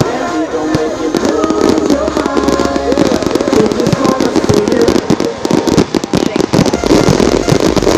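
Fireworks going off in a rapid volley of bangs and crackles, growing denser about halfway through, with music playing underneath.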